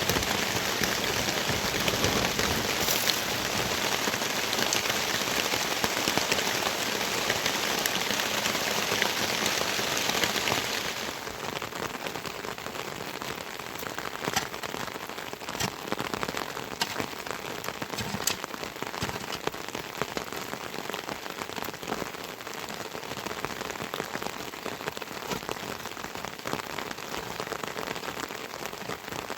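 Heavy rain falling, a dense hiss with drops ticking through it. About eleven seconds in it turns quieter and thinner, with single drops still striking sharply.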